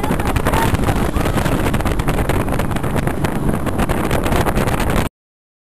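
Speedboat running, its engine and water noise mixed with heavy wind buffeting on the microphone. The sound cuts off abruptly about five seconds in.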